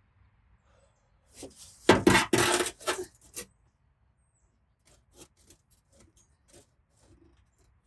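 Metal paintless dent repair tools clinking and rattling against each other in a burst about a second and a half in, followed by scattered light clicks.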